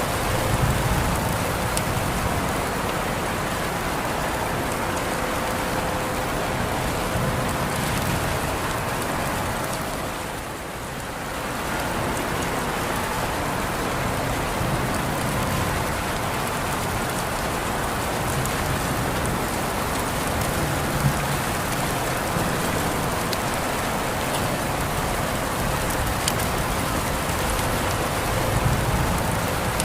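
Steady rain falling, an even hiss with a few sharper drop ticks. It briefly softens about ten seconds in, then comes back to the same level.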